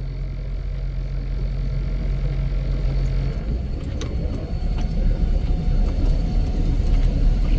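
A vehicle engine running with a steady low hum. About three seconds in, the even tone gives way to a rougher rumble that slowly gets louder.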